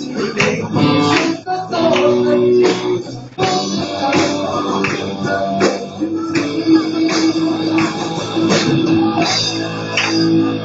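Live band music: guitar with a drum kit keeping a steady beat, and some singing.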